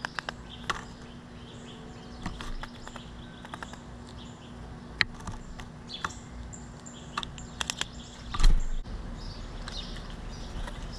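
A large black bird at a wooden tray feeder makes scattered sharp clicks and taps as it works at the seed and peanuts, while small birds chirp faintly in the background. A loud thump comes about eight and a half seconds in.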